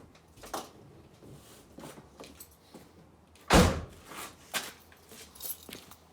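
Scattered light knocks and clicks, with one loud, heavy thud about three and a half seconds in.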